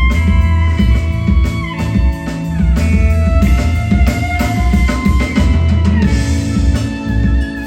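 Rock band playing an instrumental passage: electric guitar lines with held and sliding notes over drum kit and bass guitar.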